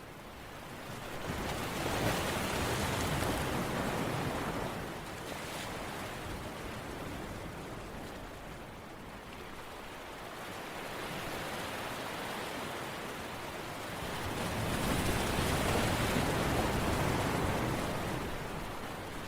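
Steady rushing water noise that swells up twice, each time for a few seconds, once near the start and again near the end.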